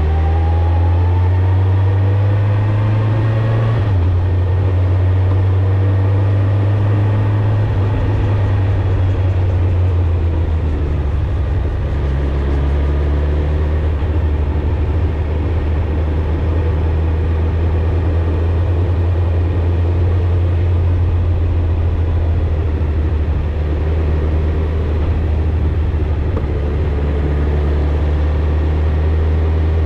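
Suzuki GSX-R1000 inline-four motorcycle engine and exhaust under way. The revs climb for the first few seconds, drop at a gear change about four seconds in, and then hold steady at cruising speed, with wind rush over the engine note.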